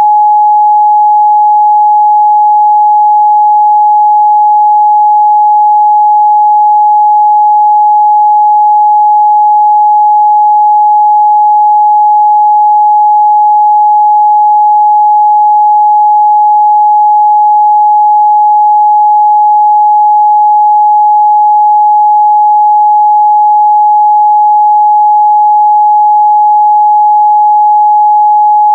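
A steady, loud 841 Hz sine-wave test tone, one pure pitch held unchanged throughout, used to check the midrange response of speakers and headphones.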